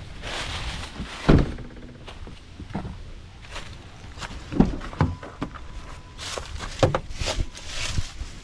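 Several sharp thuds and knocks, the loudest about a second in, with rustling between them.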